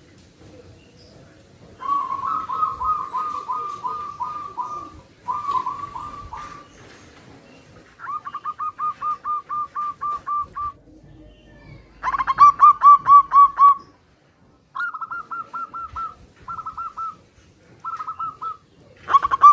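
Zebra doves (perkutut) calling and answering each other in about eight short phrases of rapid, evenly repeated cooing notes. The phrases follow one after another with short gaps and vary in loudness; the one about twelve seconds in is the loudest.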